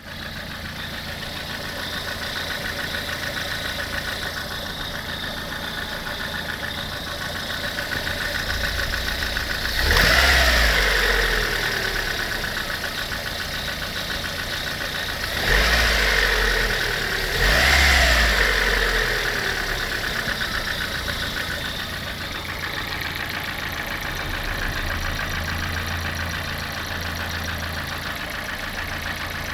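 Lada VAZ-21126 1.6-litre 16-valve four-cylinder engine idling, revved briefly three times, about a third of the way in and twice more just past halfway, each rev dropping back to idle. The owner says it makes an extraneous knock.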